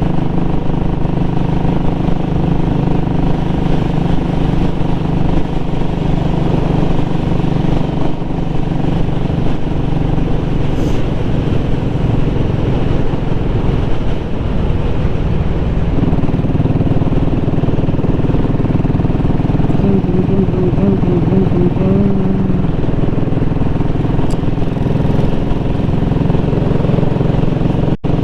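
Royal Enfield Classic 500's single-cylinder engine running steadily while riding at road speed. Road and wind noise run underneath. The sound drops out briefly near the end.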